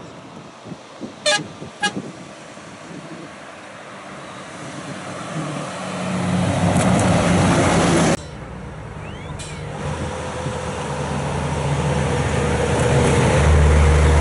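Two short horn toots, then rally truck engines rising steadily in level as trucks approach and pass, with a low engine drone and rushing noise. The sound cuts off suddenly about halfway through and builds up again with a second truck.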